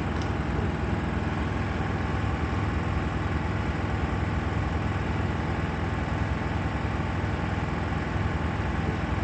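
Miele WKG 130 WPS washing machine running steadily on its spin cycle, with vibration and a knocking noise from inside the drum housing: typical of worn drum shock absorbers.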